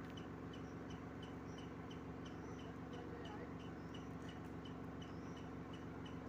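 A bird giving short, high chirps, evenly repeated about three times a second, over a steady low hum.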